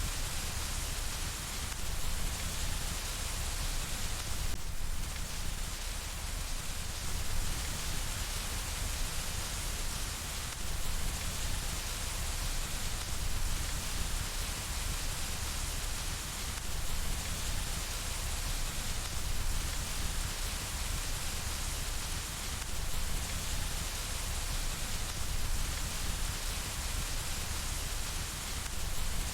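Steady rain falling against a window, an even, unbroken hiss.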